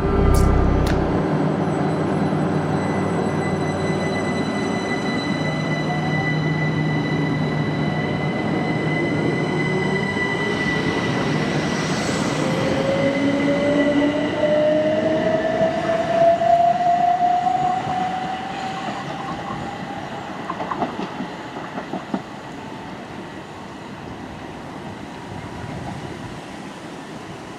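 A train passing on the line: steady rail and running noise with a high steady tone, and a whine that rises in pitch around the middle as the sound builds, then fades away over the last third.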